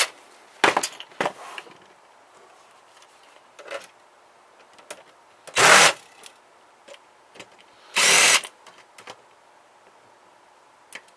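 Power drill/driver run in short bursts working screws out of a small printer's casing: two brief blips near the start, then two half-second runs, one in the middle and one about two-thirds through, with small clicks of parts being handled between.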